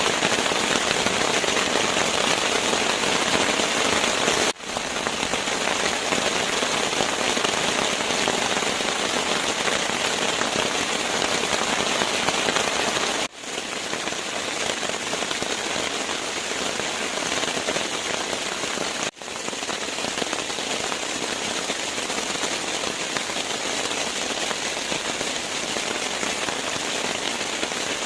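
Steady rain: a dense, even hiss of falling drops, broken three times by a momentary drop in level.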